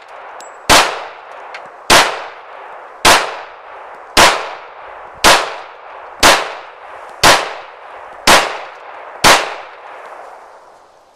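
Springfield XD pistol in .45 ACP firing nine deliberate shots, about one a second, each sharp crack followed by a ringing decay.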